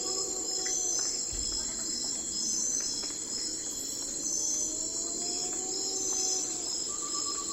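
Crickets and other insects calling at night in a dense, steady, high-pitched chorus, some layers pulsing on and off. Twice, a lower call slowly rises in pitch over a couple of seconds.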